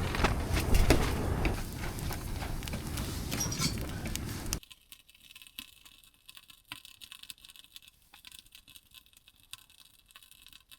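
Rough rushing noise with scattered crackles and clicks, cutting off suddenly about four and a half seconds in; after that, near silence with faint scattered ticks.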